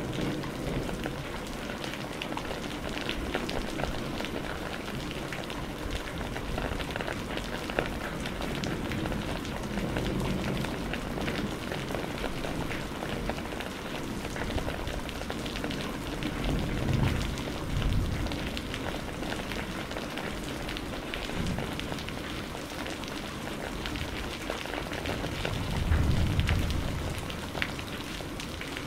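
Steady rain, with several low rumbles of thunder swelling and fading, the strongest about two-thirds of the way through and near the end.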